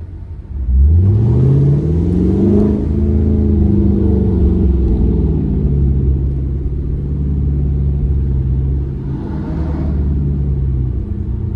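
Car engine and exhaust pulling hard under acceleration, the engine note rising steeply for about two seconds, then easing back and holding steady at cruising revs.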